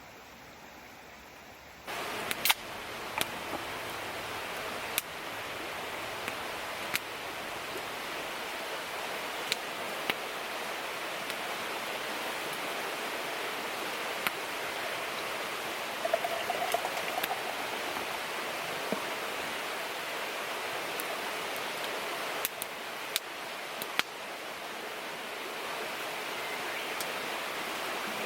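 Steady rushing of a river flowing, with scattered sharp clicks over it.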